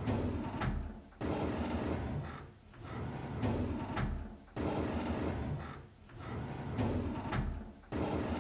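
A drawer sliding open, the same sound effect looped over and over: each pass starts abruptly with a sliding rumble and repeats about every three and a half seconds, three starts in all.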